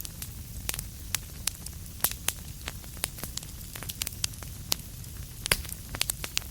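Wood fire crackling in a fireplace: irregular sharp pops and snaps, a few louder ones about two seconds and five and a half seconds in, over a steady low rumble.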